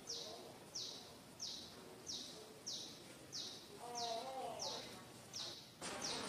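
A bird repeating a short, high, falling chirp about one and a half times a second, with a brief wavering lower call about four seconds in. The background hiss rises suddenly near the end.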